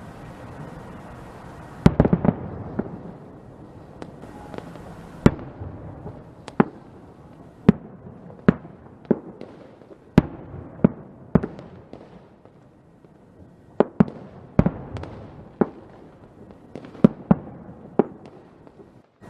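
Fireworks going off: a string of sharp bangs at irregular intervals, a quick cluster about two seconds in, over a continuous low rumble and crackle of more distant bursts.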